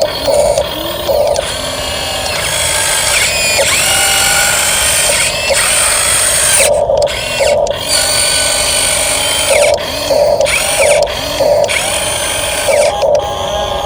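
Small electric motor and plastic gearbox of an RC dump truck whining as it drives, the pitch sliding up and down with the throttle. Short loud bursts cut in every second or so.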